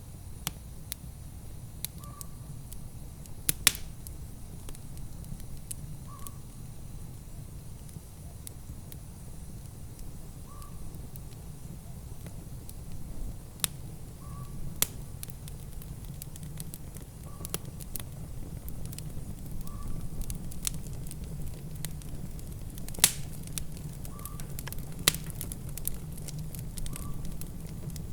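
Wood fire in a fireplace crackling, with irregular sharp pops, a few much louder than the rest, over a steady low rumble.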